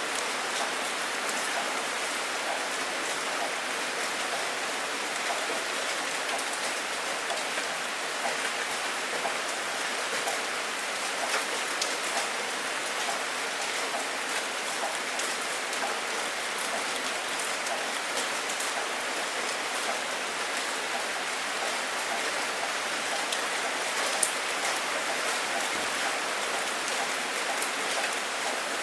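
Steady rain with individual drops ticking sharply on a hard surface.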